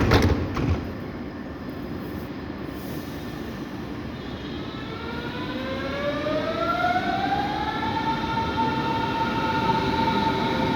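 Electric commuter train pulling away: its motor whine rises in pitch for a few seconds, then holds steady as it picks up speed, over the rumble of the wheels on the rails. A few sharp knocks at the very start.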